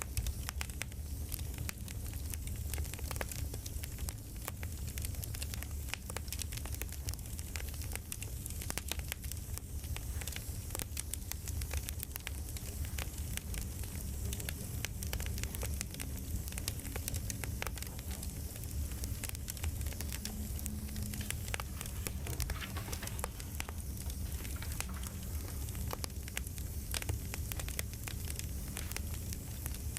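Campfire crackling: irregular snaps and pops over a steady low rumble of burning wood.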